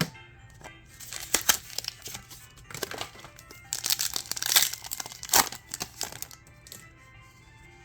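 Foil wrapper of a Pokémon card booster pack crinkling in quick crackles as it is handled and opened, over quiet background music.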